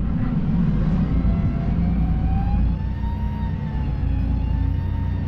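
Wheel loader's diesel engine running steadily, with a thin whine that rises in pitch about a second and a half in and then wavers slowly up and down.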